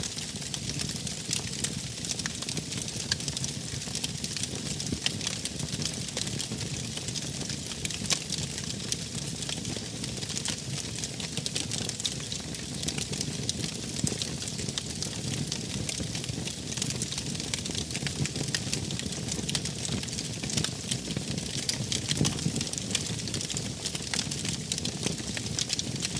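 Wood fire crackling, with many small sharp pops scattered over a steady low rush of burning.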